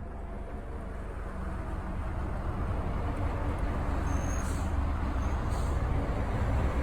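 Helicopter engine and rotor noise, a steady low drone that grows gradually louder.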